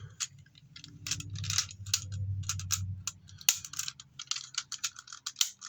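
Hard plastic toy parts clicking and rattling as a small Engine Soul cartridge is fitted into the toy's compartment, with many quick clicks and one sharp click about three and a half seconds in.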